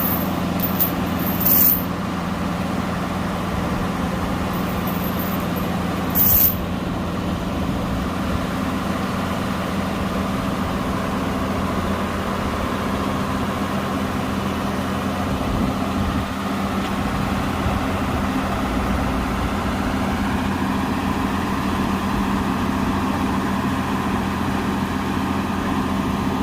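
Heavy truck's diesel engine running steadily. Two short, sharp hisses come through, about a second and a half in and again about six seconds in.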